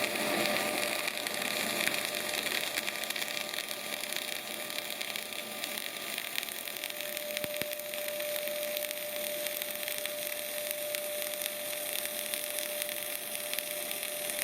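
CO2 semi-automatic (MAG) welding arc running steadily at about 250 A and 28 V on 1.2 mm flux-cored wire, a dense even crackle and sizzle laid down as a fillet weld pass. A faint steady whine joins about halfway through.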